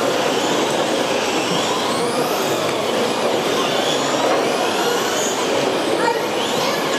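Several electric RC racing trucks' motors whining together, their pitches rising and falling over one another as they accelerate and slow around the track, over a steady rush of noise.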